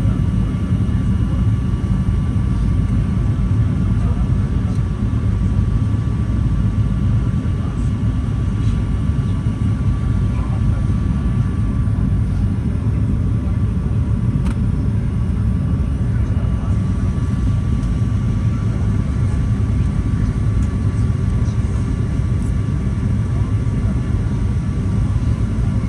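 Steady cabin noise inside a Boeing 737-800 airliner: a constant low rumble of its jet engines and the air rushing past, with a faint steady tone above it. A single sharp click about halfway through.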